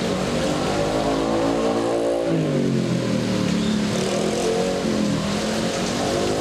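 A motor vehicle's engine running close by, its pitch dropping about two seconds in and rising again, over the steady hiss of rain.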